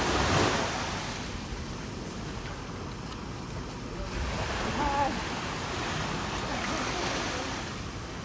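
Small ocean waves breaking and washing up the beach. The wash swells in the first second and again from about four seconds in.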